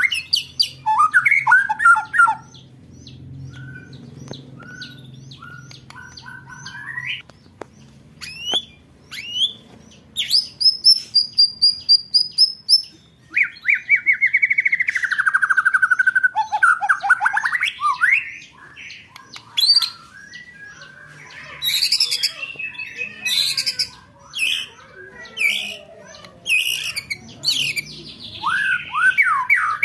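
Recorded songbird song used as training material for contest birds: a fast string of varied phrases, with rapid repeated rolled notes, falling trills, high thin whistled runs and sharp chirps, broken by short pauses.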